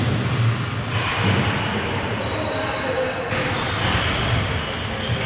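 Echoing noise of play in a large hall: a steady din with thuds and a few brief squeaks around the middle.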